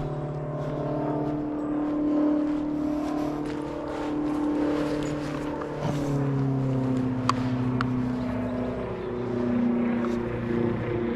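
A motor engine droning steadily at an even pitch, which drops about six seconds in as it passes. Two sharp clicks a little after seven seconds.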